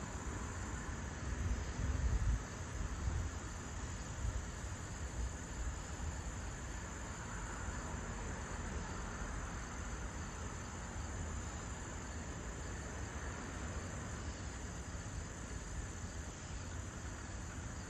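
Steady high-pitched chirring of crickets, with a low rumble that swells in the first few seconds.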